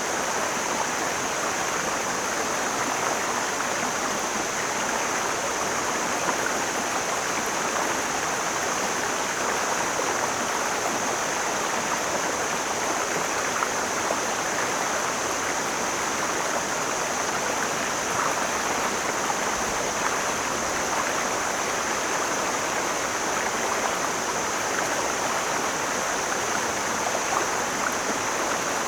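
Mountain stream flowing, a steady rush of water over rocks with no let-up.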